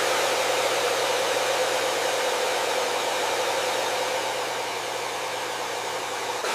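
Electric hair dryer running steadily: a constant airflow hiss over an even motor hum.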